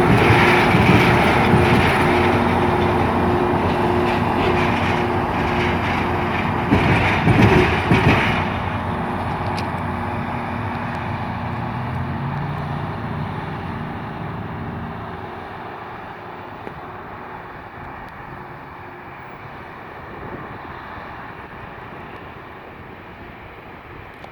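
CSX rail grinder train running past, loud at first with a few surges about a third of the way in, then fading steadily as it moves away.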